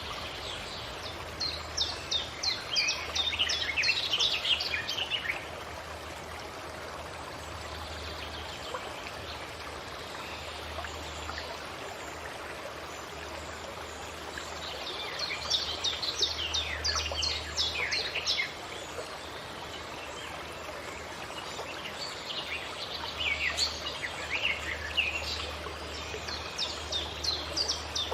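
A songbird sings three bouts of fast, quickly repeated falling notes, each a few seconds long, over the steady rush of a forest stream.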